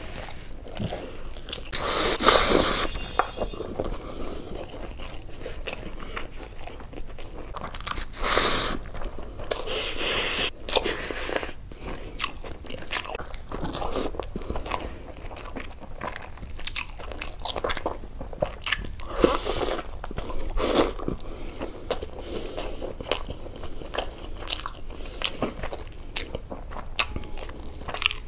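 Close-miked eating: a man chewing and biting his way through rice and chicken eaten by hand, with wet mouth sounds throughout and a handful of louder bites and crunches. Later he bites into a chicken leg.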